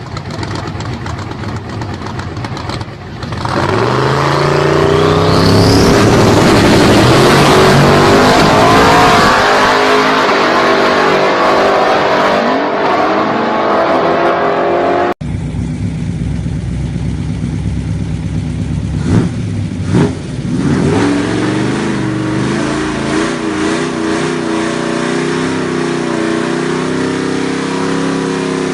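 Muscle car engine revving hard into a burnout, with the hiss and squeal of spinning tyres for about ten seconds. After an abrupt cut, another car's engine revs and runs, with a couple of sharp bangs partway through.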